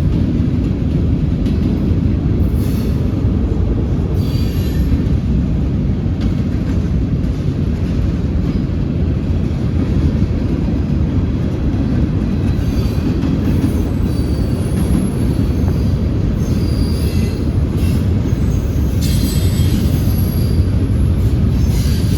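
Freight train rolling past: a steady, loud rumble of the cars on the rails, with short high-pitched wheel squeals coming and going, more of them in the second half.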